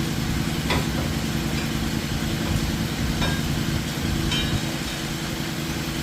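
A steady low mechanical drone, like an engine or motor running, with a few faint light clicks over it.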